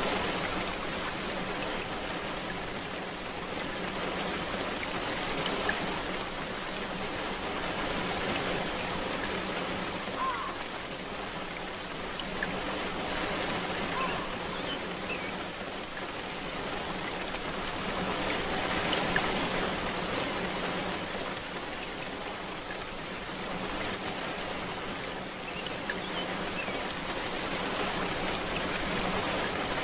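Steady rainfall, an even hiss of drops, with a few faint short chirps in the middle.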